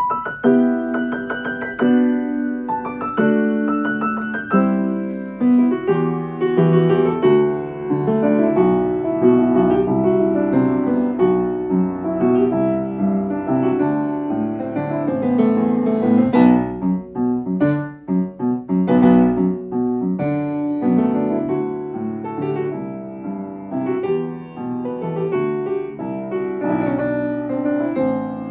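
Solo piano playing a melody over chords.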